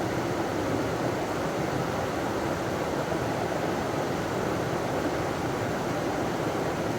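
River water running over a small waterfall, a steady rushing noise with no change.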